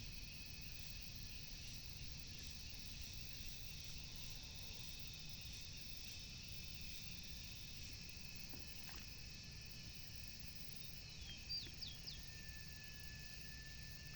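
Outdoor ambience of steady insect chirring, with a bird giving a few quick, sharp, high notes about eleven seconds in.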